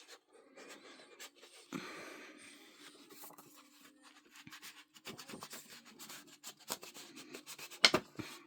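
Paper and craft materials being handled and trimmed on a tabletop, small rubbing, scratching and rustling sounds, with a sharper click near the end.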